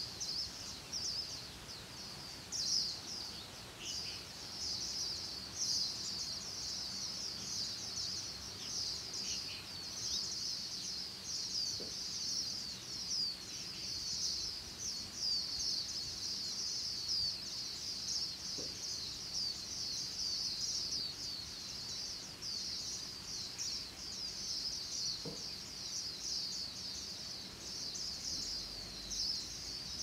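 A dense, unbroken chorus of high-pitched chirps from many small birds, each a short downward slide, with an occasional fainter, lower call.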